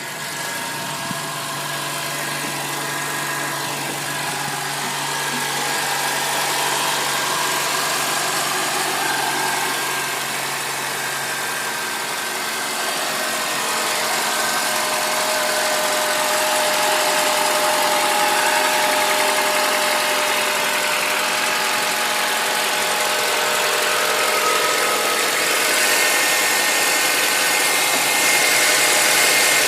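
Honda Accord engine running steadily, several even tones over a constant hiss, recorded for an unexplained engine noise.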